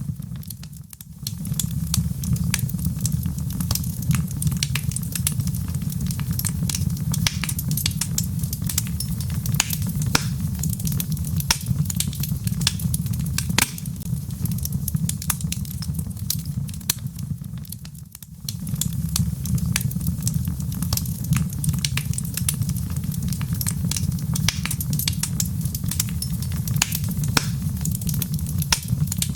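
Wood fire in a fireplace crackling, with frequent sharp pops and snaps over a steady low rush of burning logs. The low rush briefly drops away about a second in and again near 18 seconds, then returns.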